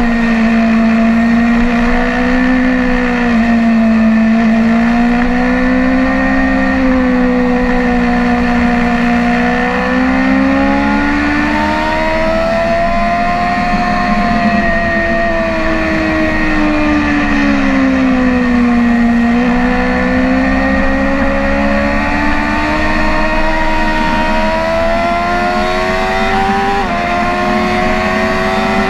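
BMW S1000RR inline-four sport bike engine running hard on track, heard from on board. Its pitch climbs, eases back through a long dip, then climbs again, with a sudden drop in pitch near the end as it shifts up a gear.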